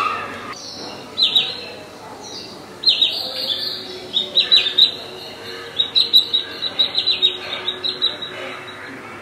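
A bird chirping in quick runs of short, high, falling notes: a few brief runs in the first half, then a longer, busier run toward the end.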